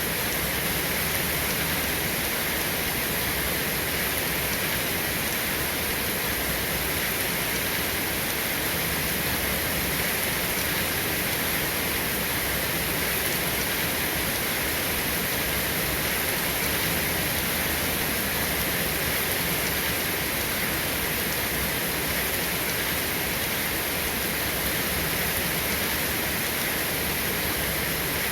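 Steady rain falling: a dense, even hiss with no thunder.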